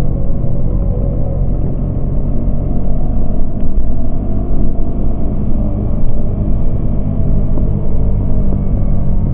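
Yamaha MT-25 parallel-twin engine running at low, fairly steady revs under a heavy low wind rumble.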